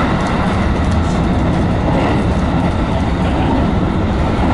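Steady low running rumble inside a JR West 221 series electric train travelling at speed: wheels on the rails and the car's own running noise, heard from the front of the passenger car.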